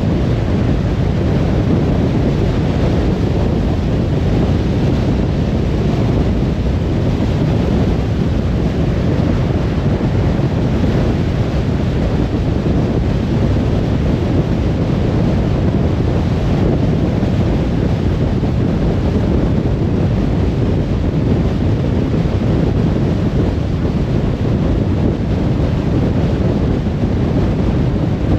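Car travelling at motorway speed: a steady, even rush of tyre and wind noise, heaviest in the low end, with no changes or separate events.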